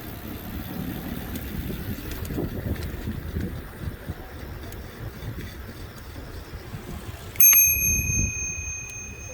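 A bicycle bell struck once about seven seconds in, a bright ding that rings on and slowly fades, over a steady low rumble from the moving bike.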